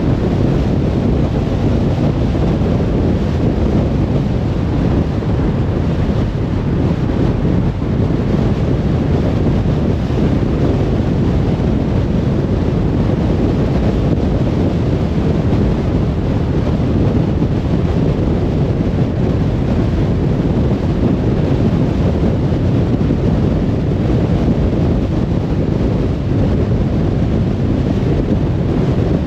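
Car driving at motorway speed: a steady low rumble of tyre and wind noise that stays even throughout.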